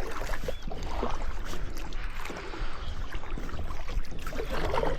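Kayak setting off across a lake, water splashing and sloshing around the hull in irregular surges, two of them stronger, about a second in and near the end, over a low steady rumble.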